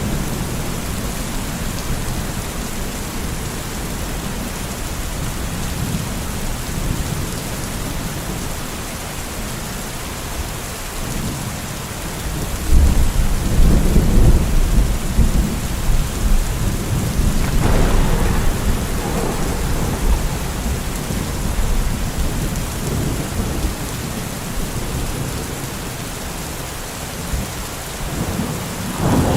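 Steady rain with a thunderstorm: a long low rumble of thunder sets in about halfway through and lasts several seconds. There is a sharp crack partway through and another near the end.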